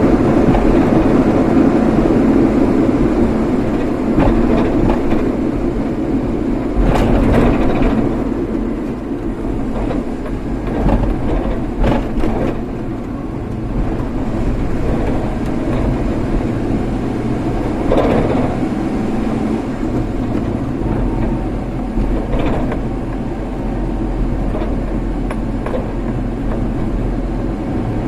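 A vehicle on the move: a steady running rumble of engine and road noise, with a few brief louder swells along the way.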